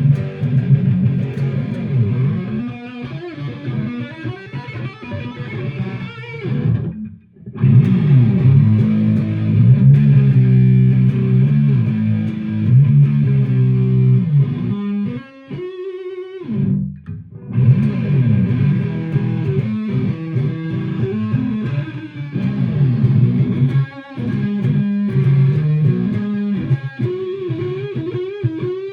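1995 Gibson Les Paul Studio electric guitar with humbucking pickups played through an amplifier: chords and single-note lines, with two short pauses, about seven seconds in and about sixteen seconds in.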